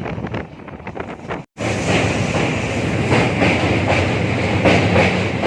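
Passenger express train running at speed, heard from on board: a steady rumble of wheels on rail with wind over the microphone and irregular clacks of the wheels. The sound cuts out for a moment about a second and a half in, then comes back louder.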